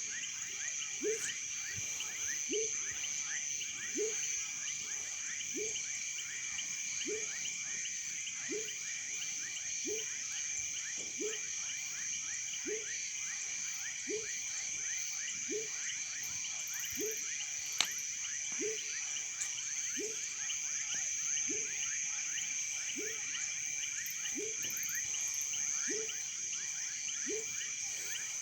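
Chorus of frogs and insects: a steady high trilling, many small chirps, and one frog giving a short, low, falling call about every second and a half. A single sharp pop sounds about two-thirds of the way through.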